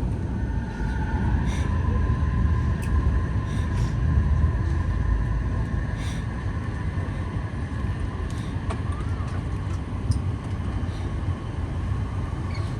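Airbus A380 cabin noise while taxiing after landing: a steady low rumble, with a faint high two-note whine that sets in about a second in and fades out near the end, and a few light clicks.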